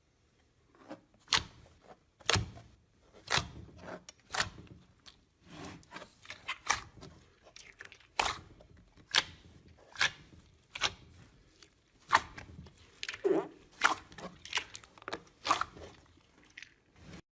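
Crisp, irregular crunches and pops from a crunchy ASMR material being worked by hand. They come about once a second at first and more densely later on.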